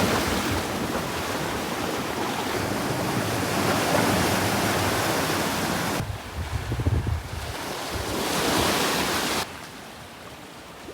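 Sea surf washing in, a steady rushing noise, with wind buffeting the microphone. The sound changes abruptly about six seconds in and drops quieter near the end.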